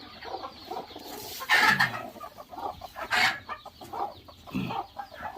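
Chickens clucking in short, irregular calls, with two louder calls about a second and a half and three seconds in.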